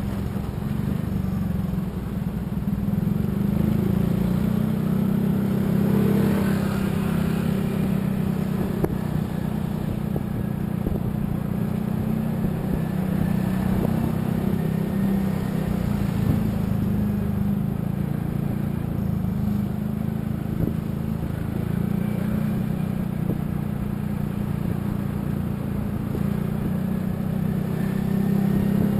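A road vehicle's engine running steadily while driving, with a continuous low hum and road rumble, swelling a little a few seconds in and again near the end.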